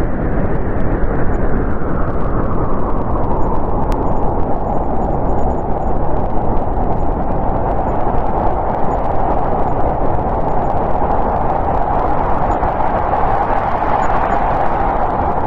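Snowstorm wind blowing steadily: a continuous rushing howl that slowly swells and eases in pitch.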